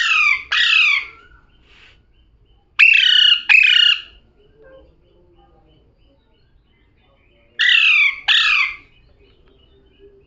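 Pet parrot calling: three pairs of short calls, each note falling in pitch, the pairs a few seconds apart.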